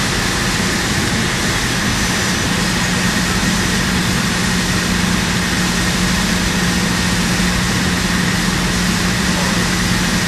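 Steady mechanical drone of running machinery: a low hum and a faint high whine over a constant even noise.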